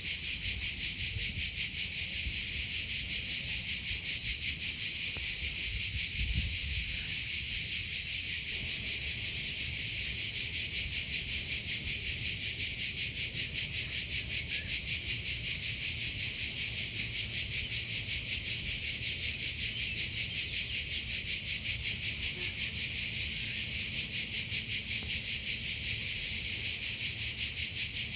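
Cricket chirping without a break: a high-pitched trill pulsing evenly several times a second.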